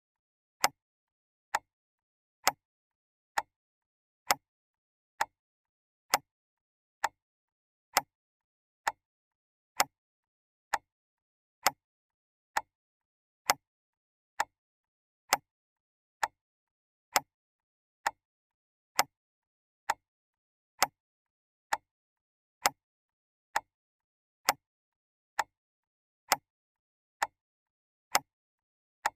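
Clock ticking steadily: single sharp ticks a little faster than one a second, evenly spaced, with silence between them.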